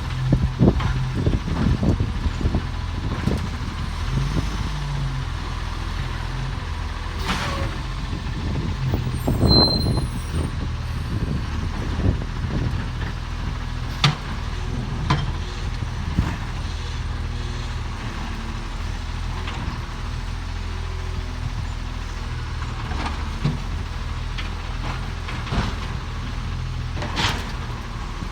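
Garbage truck engine running steadily, with scattered knocks and clanks, a cluster of them in the first few seconds and a louder burst about ten seconds in.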